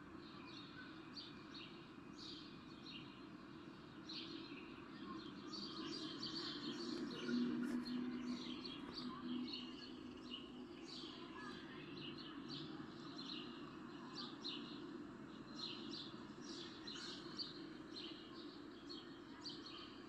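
Birds chirping: many short, overlapping calls, faint, over a low steady hum.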